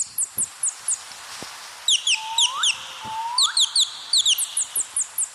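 Birds chirping: rapid runs of short, high chirps, with two rising whistled notes a little past the middle.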